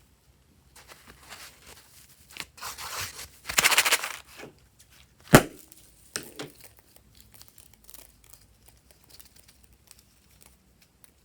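Close-up crinkling and tearing of slime-making materials, densest a few seconds in, then one sharp snap or pop about five seconds in, followed by scattered small clicks.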